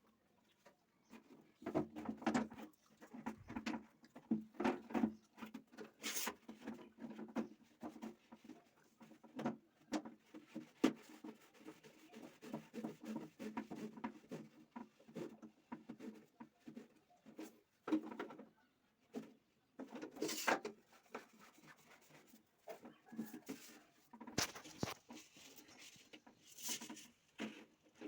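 Irregular knocks, clicks and scraping of hand work on plumbing fittings, with several sharper knocks about 6, 11, 20 and 25 seconds in.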